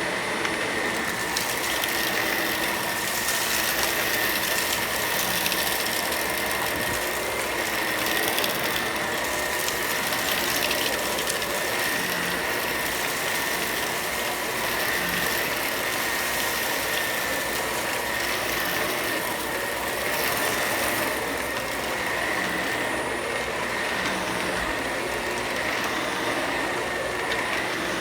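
Vacuum cleaner running steadily, its motor noise carrying a constant high whine.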